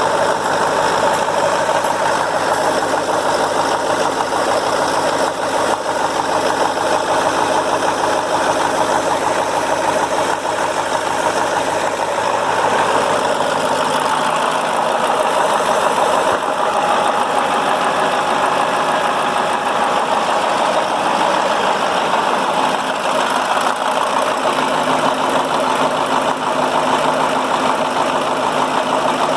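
KAMAZ 740.51-320 V8 turbodiesel engine running steadily.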